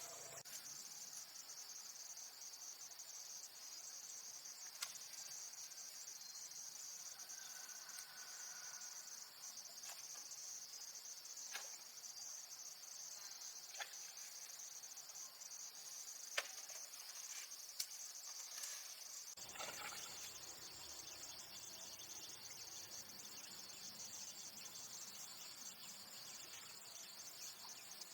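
Steady high-pitched chirring of crickets, with a few short sharp clicks scattered through.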